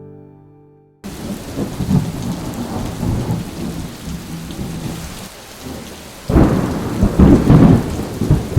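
Squall at night: steady heavy rain with gusting wind, and a loud low rumble of thunder that swells about six seconds in. It starts abruptly after a second of fading acoustic guitar music.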